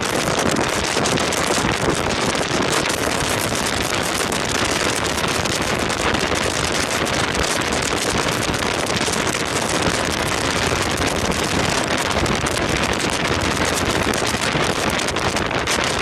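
Storm-force mountain wind blowing hard and buffeting the microphone: a loud, unbroken rush of noise that holds steady throughout.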